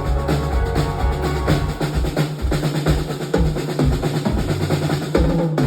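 Live rock band playing an instrumental passage between sung lines, the drum kit to the fore with steady low notes beneath.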